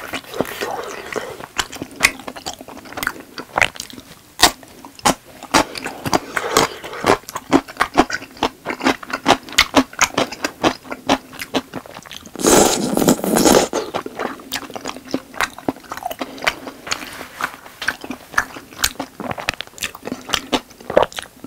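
Close-miked chewing of tteokbokki, the chewy Korean rice cakes in red sauce: a rapid train of wet mouth clicks and smacks, with a louder, noisier stretch of about a second around two-thirds of the way in.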